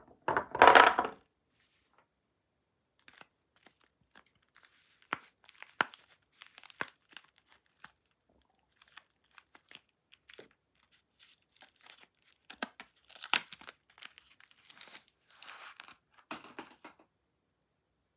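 Soap packaging being torn open by hand: one loud rip near the start, then scattered crinkling and small crackles as the wrapper is handled, growing busier again near the end.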